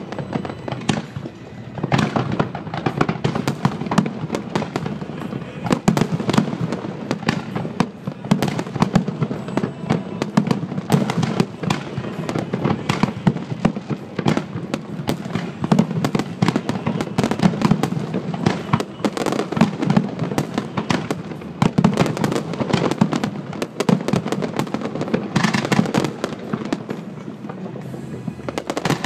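Fireworks finale barrage: aerial shells bursting in quick, overlapping succession, several bangs a second with crackle between them and no pause. Recorded on a smartphone.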